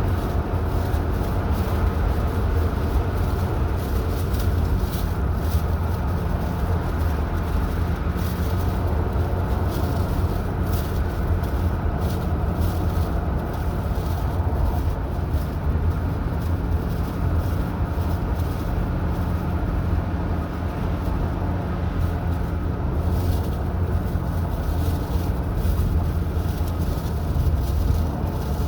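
A car driving at a steady pace: a continuous low engine and road hum with tyre noise, holding level throughout.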